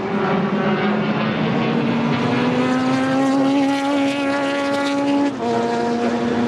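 A historic sports-racing car's engine under full throttle, its pitch climbing steadily for about five seconds, then dropping sharply on an upshift near the end.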